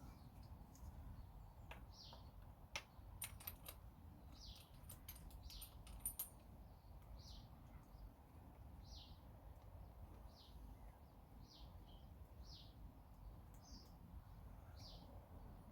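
Faint bird chirping: a single short note repeated roughly once a second, over a low background hum. A few light clicks come in the first six seconds.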